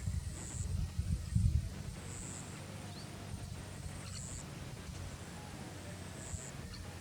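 Outdoor ambience: wind rumbling on the microphone, strongest in the first couple of seconds, with a short high-pitched chirp repeating about every two seconds.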